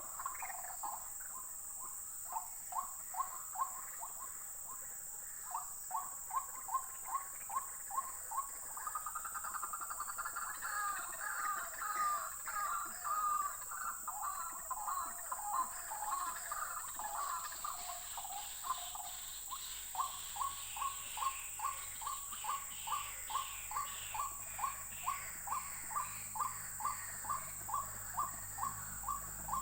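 White-breasted waterhens calling: long runs of short, harsh notes repeated about twice a second, with a denser stretch of overlapping calls in the middle. A steady high insect buzz runs underneath.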